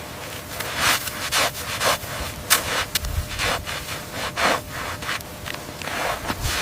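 A series of rough scraping or rubbing strokes, about two a second and slightly uneven.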